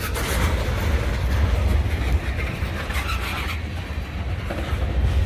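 A moving train rolling past at speed: a steady rumble of wheels on rails.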